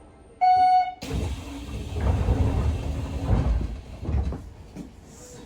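Inside a Hanshin 9000 series train car standing at a station: a short, loud, steady tone about half a second in, then rumbling noise from the car that swells and fades.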